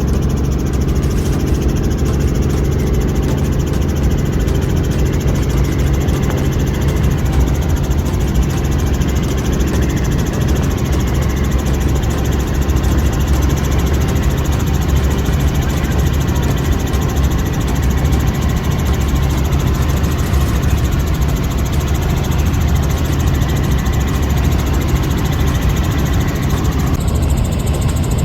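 An engine running steadily at an even, unchanging speed, loud and close.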